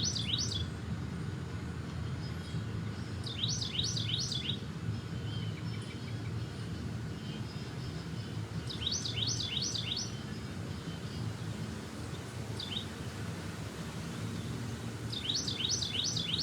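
A songbird singing a short phrase of quick, high, rapidly repeated notes, lasting about a second and repeated roughly every five seconds, four times in all with one lone short note between. A steady low rumble of background noise runs underneath.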